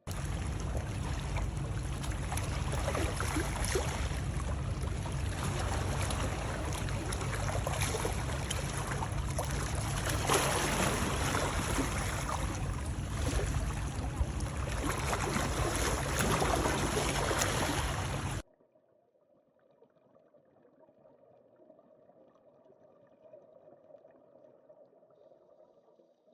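Water noise, a steady rushing and gurgling hiss as heard underwater, which cuts off suddenly about 18 seconds in and leaves only a faint low hum.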